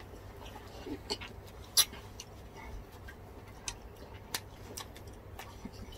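Crunching and chewing of deep-fried crispy pork (bagnet and crispy pata): a scatter of sharp crunches and mouth clicks, the loudest about two seconds in.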